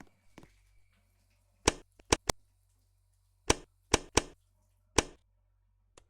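A series of sharp knocks, about seven, spaced irregularly, some in quick pairs, over a faint steady low hum.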